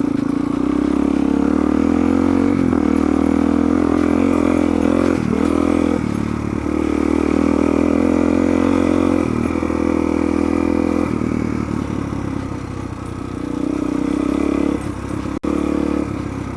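Suzuki DR-Z400's single-cylinder four-stroke engine running under load while riding, its pitch rising and falling with the throttle. It eases off about eleven seconds in and picks up again near the end.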